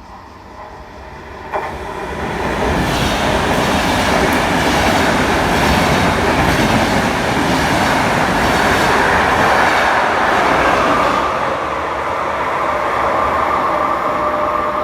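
Electric-hauled train passing through a station, a loud rush of wheels and rail noise with clattering over the rail joints. It swells in over the first couple of seconds after a sharp click, then eases slightly, leaving a steady whine near the end.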